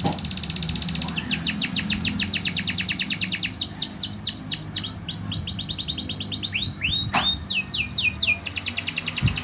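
Eurasian tree sparrow chirping in fast runs of about ten chirps a second, with downward-sweeping calls mixed in midway and near the end. A single sharp click about seven seconds in.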